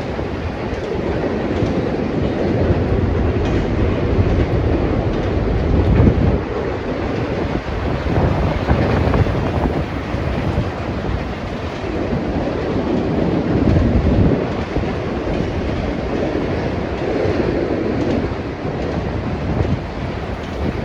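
Freight train cars rolling past close by: a continuous heavy rumble of steel wheels on the rails that swells and eases every second or two.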